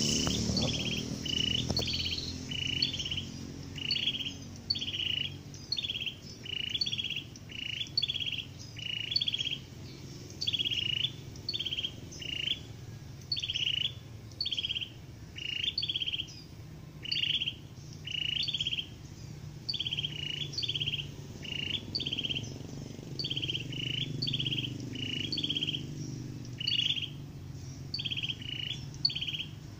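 A small songbird calling over and over, short high chirps in quick succession, about two a second.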